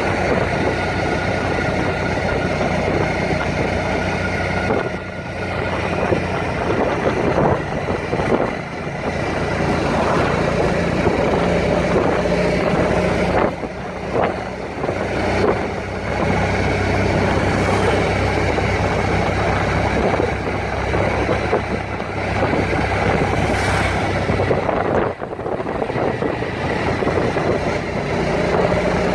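Motor vehicle engine running steadily with road noise, dipping briefly a few times.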